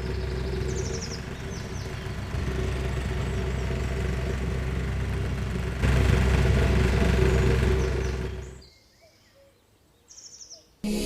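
A small motor runs with a steady hum, gets louder about six seconds in, then fades away to near silence. Birds chirp in short high trills.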